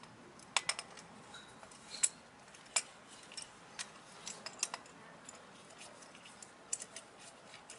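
Irregular light metallic clicks and clinks from small tools and brake parts being handled while a scooter's rear brake pads are changed, about a dozen sharp ticks scattered through the stretch.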